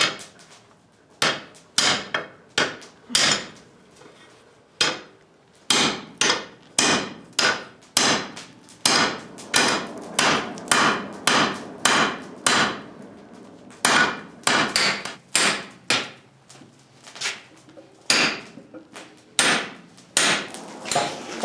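Blacksmith's hand hammer striking hot 3/4-inch steel sucker rod on the anvil while forging a dinner-bell triangle. It is a long run of sharp blows: a few spaced out at first, with a short pause, then steadier at about two a second.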